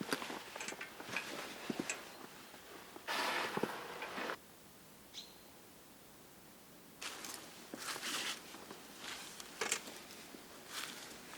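Footsteps and handling rustling in dry leaves and forest litter, in irregular crunches and clicks. There is a louder rustling burst a few seconds in, then a quieter stretch with one brief high peep before the rustling starts again.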